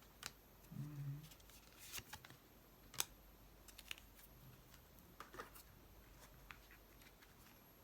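Near silence with a few faint, sharp clicks and light rustles of tarot cards being handled, and a brief hum of a voice about a second in.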